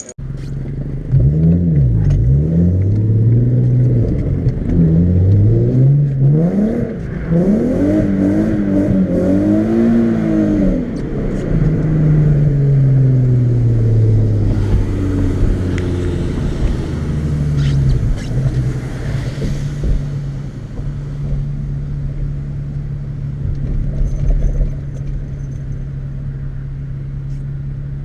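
A vehicle engine accelerating, its pitch rising and falling repeatedly through gear changes, then dropping away as it slows, and settling into a steady drone from about twenty seconds in.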